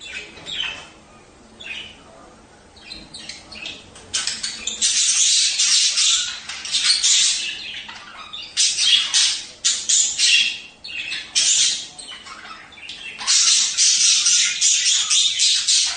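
Budgerigars chattering and warbling: dense, scratchy chirps and squawks in irregular loud bursts, quieter for the first few seconds.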